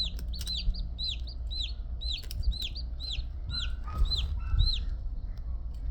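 Newly hatched chick peeping over and over, about two high chirps a second, each rising and then falling.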